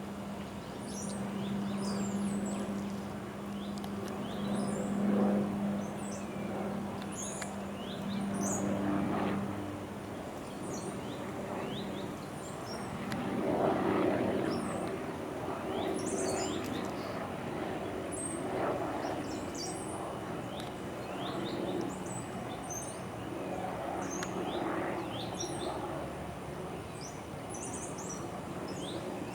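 Birds chirping over the steady drone of a police helicopter, whose hum is strongest in the first ten seconds and then fades, with slow swells of broad outdoor noise.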